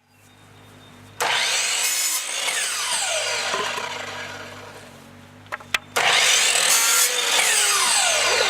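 Power saw cutting through lumber twice. Each cut is a long steady run of loud sawing noise, and the first one tails off before two sharp clicks and the second cut.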